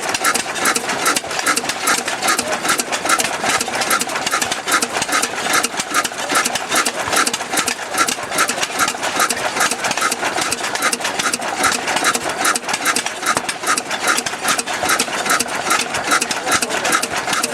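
17 HP Ruston Type CR single-cylinder diesel engine running steadily, with an even beat about two to three times a second over a dense clatter of clicks.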